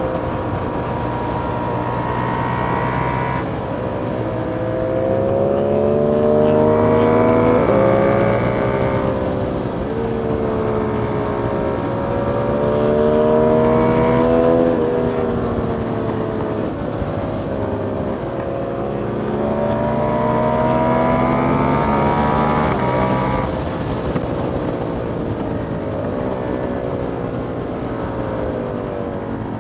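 KTM 890 Duke R parallel-twin engine through a catless Austin Racing GP1R exhaust, pulling hard several times. The pitch climbs steadily in each pull and drops suddenly about 3.5, 8, 14 and 23 seconds in.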